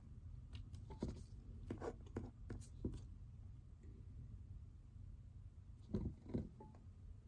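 Pen writing on paper: a run of short scratchy strokes, then two louder knocks about six seconds in, over a low steady room hum.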